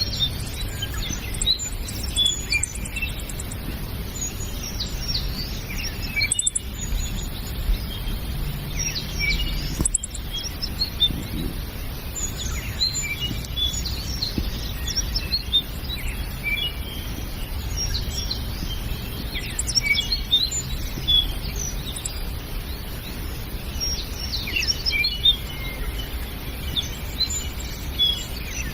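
Morning chorus of several songbirds: many short, high chirps and quick whistled notes overlapping, over a steady low background rumble.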